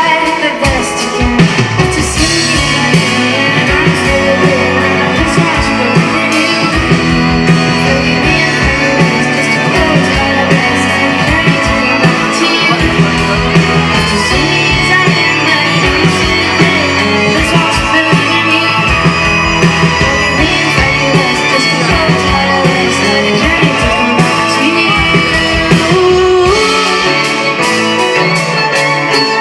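A live pop band playing a song through a concert sound system, with a steady drum beat and a singing voice.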